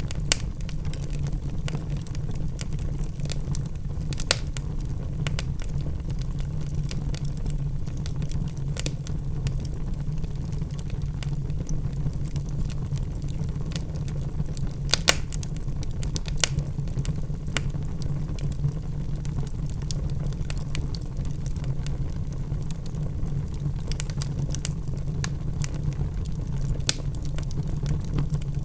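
Wood logs burning in a fireplace: a steady low roar of the fire with scattered crackles and pops, a few of them sharper and louder.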